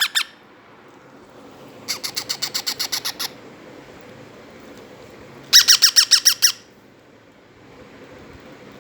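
Baby Indian ringneck parrot chicks giving harsh begging squawks in rapid strings of about nine calls a second, in bouts: one trailing off at the very start, one about two seconds in and one about five and a half seconds in.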